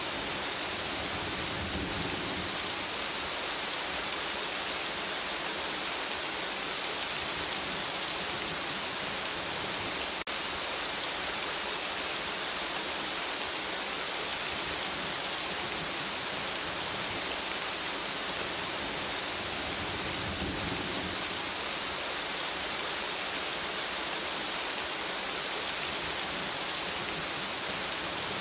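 Steady rain falling on forest foliage, an even hiss. A soft low rumble swells twice, about two seconds in and again about twenty seconds in.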